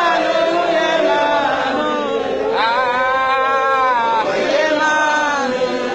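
A group of voices chanting and singing over one another without a break, some notes held long and sliding in pitch.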